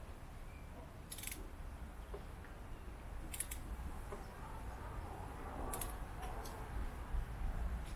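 A few short, light clicks over a low steady hum, typical of small tools and metal parts being handled.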